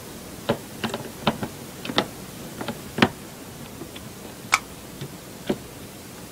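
About a dozen irregular clicks and knocks of a laptop hard drive being handled and fitted into the drive bay, plastic and metal parts tapping together, over a steady hiss; the sharpest knocks come about three and four and a half seconds in.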